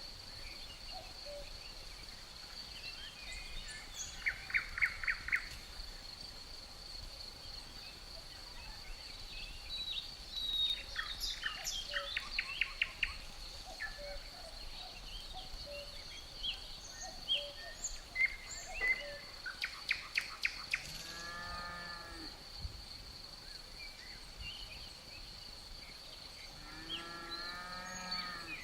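Outdoor nature ambience: a steady high insect trill runs through, with birds chirping in short bursts. Twice, at about 21 seconds and near the end, a long, low animal call sounds, like the lowing of cattle.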